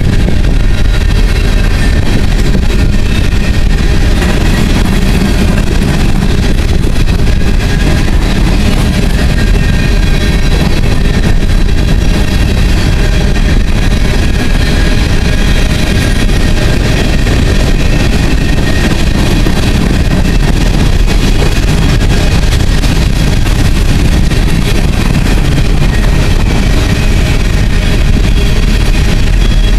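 Empty coal hopper cars of a freight train rolling past close by: a steady, loud rumble of steel wheels on the rails, with faint steady high tones above it.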